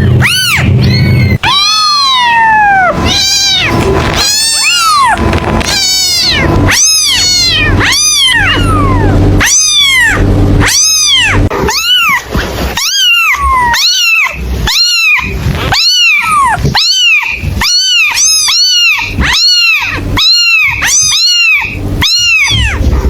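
A kitten mewing over and over, each high-pitched mew rising and then falling in pitch, about one or two a second. The mews come quicker and more evenly spaced in the second half. A steady low hum runs under the first half.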